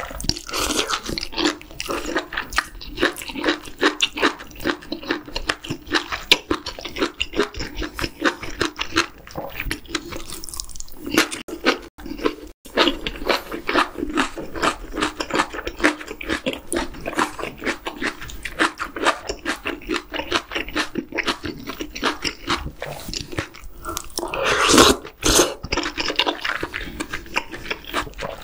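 Close-miked wet chewing and mouth sounds of a person eating spicy octopus hot pot with chewy jjolmyeon noodles: a rapid, continuous run of smacks and squishy clicks. There is one louder, longer wet sound near the end.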